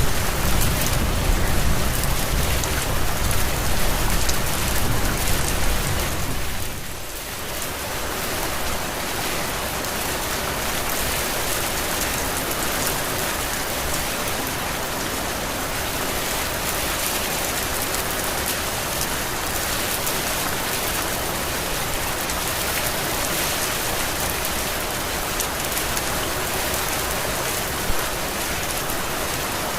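Steady heavy rain pouring, a dense even hiss of drops. A low rumble sits under the rain for the first six seconds, then fades out with a brief dip about seven seconds in; one sharp tap stands out near the end.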